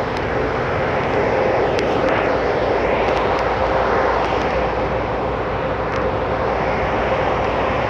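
A D&S Quicksilver touchless in-bay car wash running: a loud, steady rushing noise with a constant hum underneath.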